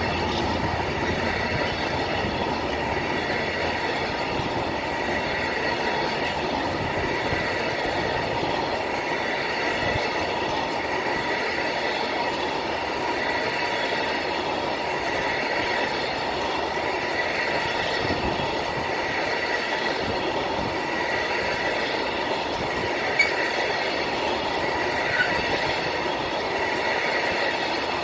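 Train running along the track: steady rolling wheel-and-rail noise, with a faint wheel squeal coming and going and a sharp click about 23 seconds in.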